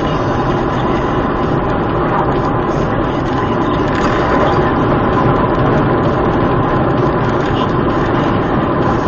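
Steady engine and road noise of a car on the move, even and unbroken, with no impacts.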